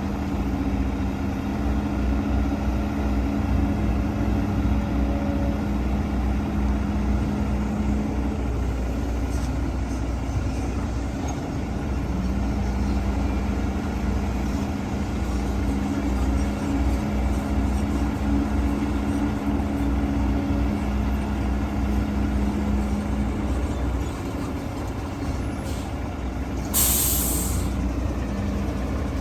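Heavy diesel earthmoving machinery running steadily with a low rumble. Near the end comes one short, loud hiss of released air.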